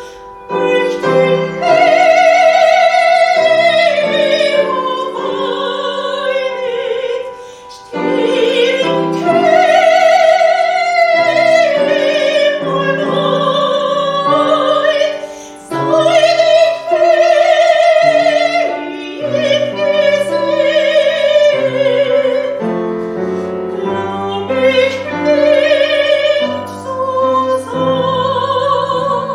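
Solo soprano singing in classical style with wide vibrato, holding long notes, accompanied by piano.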